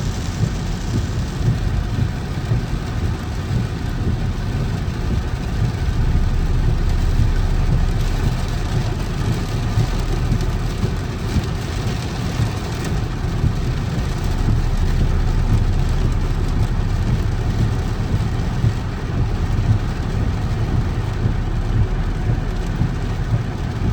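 Car driving in heavy rain: a steady low rumble of engine and road with rain hiss over it.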